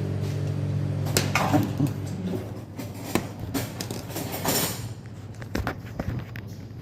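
Background music fading out about two seconds in, then scattered clicks, knocks and light clatter of objects being handled, with a short hiss a little past the middle.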